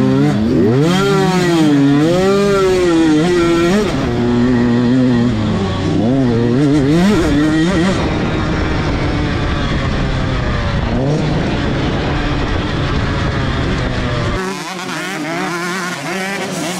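Motocross dirt bike engines revving up and down as the bikes race around the track, their pitch rising and falling again and again. About three-quarters of the way through, the deep rumble drops away and the engines sound thinner and a little quieter.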